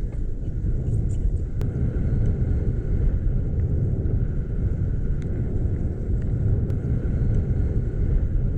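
Steady low rumble of wind and road noise on a GoPro action camera's microphone while cycling, with a few faint clicks.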